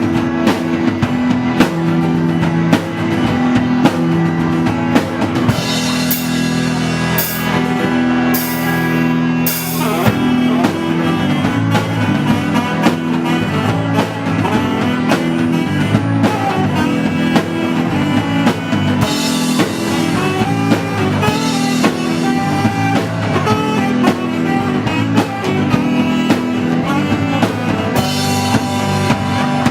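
Live rock band playing an instrumental passage: drum kit keeping a steady beat under guitar.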